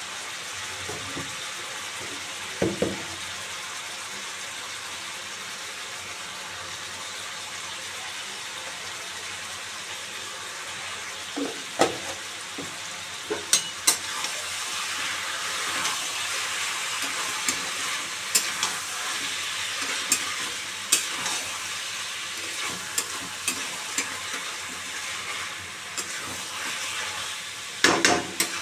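Chicken pieces and sliced onions sizzling in oil in a kadhai, with a steady hiss. From about eleven seconds in, a steel spatula stirs and turns them, scraping and clinking sharply against the pan.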